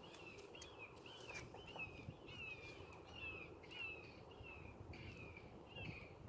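Faint bird calling in the background: a short chirp repeated about three times a second, on and on.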